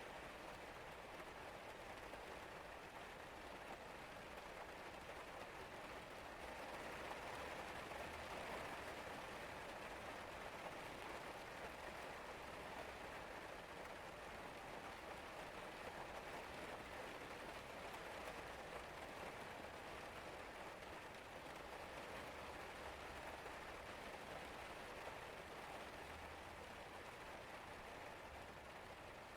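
Steady rain falling, an even hiss of drops, a little louder for a few seconds about a quarter of the way in.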